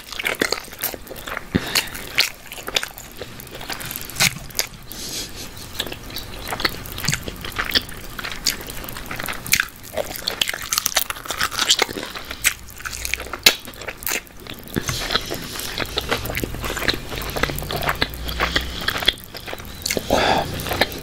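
Close-miked eating sounds of a person biting and chewing meat off a barbecue-glazed chicken drumstick, with frequent sharp mouth clicks throughout.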